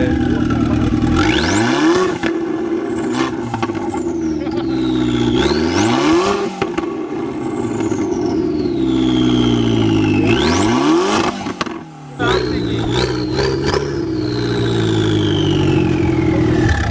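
Car engine revved hard about three times, each rev climbing sharply and falling back toward idle, then a quick run of short blips near the end; stupid loud.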